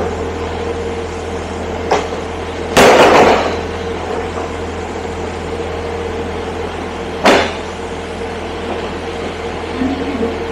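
Steady hum of a train heard from inside the carriage, with a constant droning tone. A few sharp knocks break through, the loudest a longer bang about three seconds in and another about seven seconds in.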